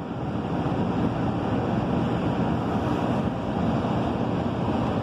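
Commuter train running, heard from inside the carriage: a steady rumble of wheels and running gear that rises a little in the first second.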